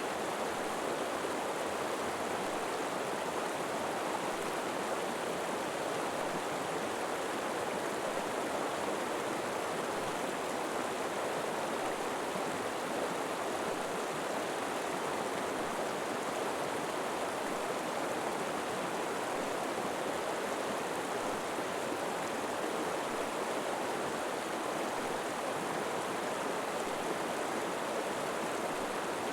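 River water flowing and rushing over rocks, a steady unbroken wash.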